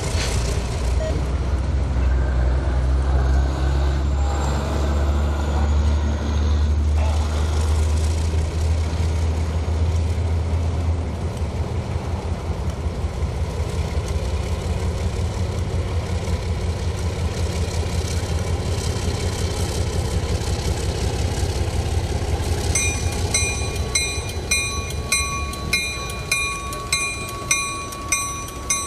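Diesel freight locomotive running past with a deep, steady engine drone, giving way after about ten seconds to the fast, even clatter of the rolling train. Near the end a bell starts ringing with a quick, regular strike.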